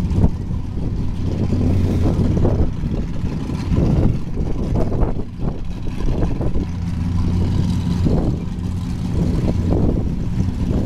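Car engine running with a steady low drone that fades in the middle and swells again in the second half.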